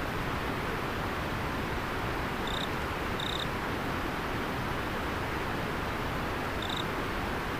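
Steady rush of a flowing river, with an insect chirping three short times, twice close together and once more near the end.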